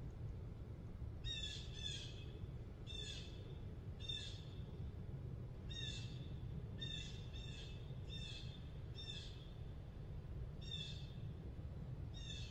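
A bird calling repeatedly: about eleven short calls at uneven intervals, starting about a second in, over a steady low background rumble.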